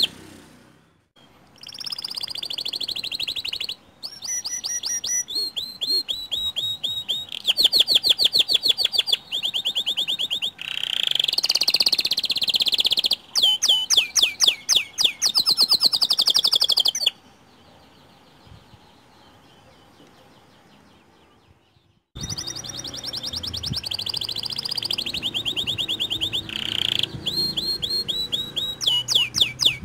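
White canary singing long phrases of fast rolling trills and chirps, with a break of about five seconds past the middle before the song starts again.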